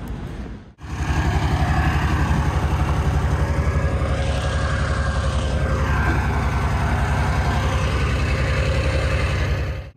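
Heavy diesel engine of a semi truck running steadily with a fast, even low throb. It starts abruptly about a second in and cuts off just before the end.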